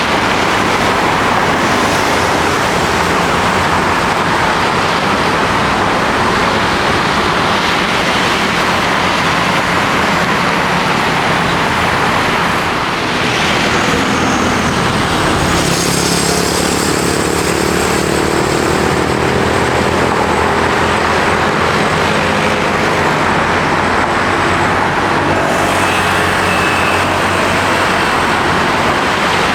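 Loud, steady jet engine noise from Airbus A320 airliners. About 13 seconds in it dips briefly, and from then on steady engine tones sound through the noise.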